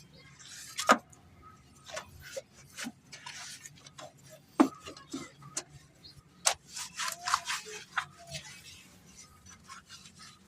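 Irregular rubbing and scrubbing from a brush worked over a car engine, broken by scattered sharp clicks and knocks.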